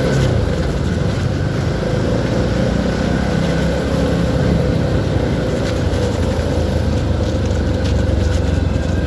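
CFMoto 300SR motorcycle under way: a steady rumble of engine and road and wind noise, with no clear revving.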